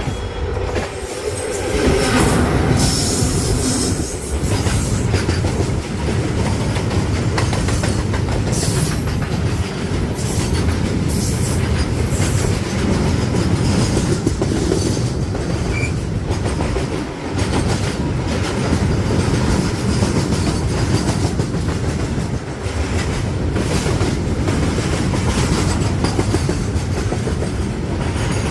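Freight train of petrol tank wagons rolling past, with a loud steady rumble, rhythmic clickety-clack of wheels over rail joints, and high wheel squeal now and then, strongest near the start and about a third of the way through.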